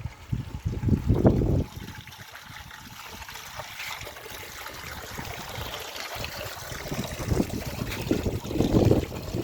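A small stream trickling, a steady watery hiss. Wind buffets the microphone in the first second and a half and builds again near the end.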